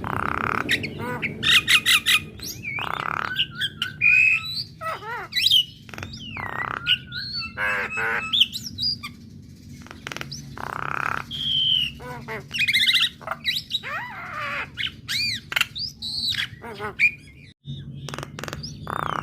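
Female Javan myna singing a dense, varied song: harsh squawks mixed with whistled notes that sweep up and down and fast trills, with hardly a pause.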